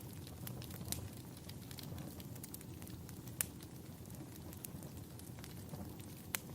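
Wood fire crackling, with scattered sharp pops over a low steady rumble; two louder pops come about three and a half seconds in and near the end.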